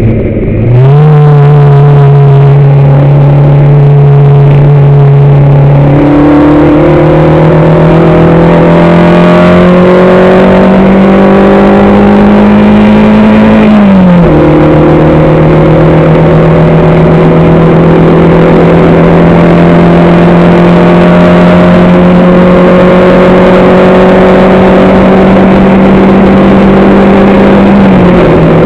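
Race car engine heard from on board, loud and pulling hard under load. Right at the start the pitch dips sharply and recovers. After that the pitch climbs slowly through long gears, dropping suddenly at two upshifts, about halfway through and near the end.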